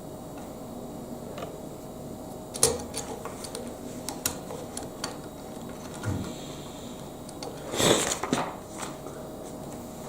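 Plastic Lego Technic pieces being handled and clicked together: scattered sharp clicks and small rattles, with a louder clatter about eight seconds in.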